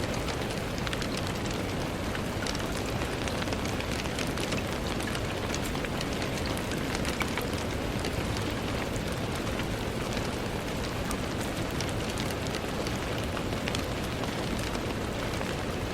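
Steady rain with many fine, dense drop ticks on a hard surface, heard as rain against a window pane.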